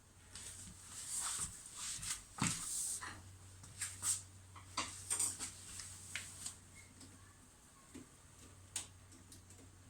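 Screwdriver working a hose clamp off a washing machine drain hose: a run of small clicks, scrapes and rustles of metal and plastic being handled, thinning out to a few sparse clicks over the last few seconds.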